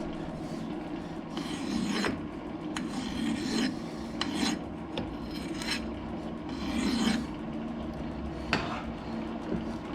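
Hand file rasping in repeated strokes against a metal workpiece turning in the lathe, breaking its sharp edge, over the steady hum of the lathe running.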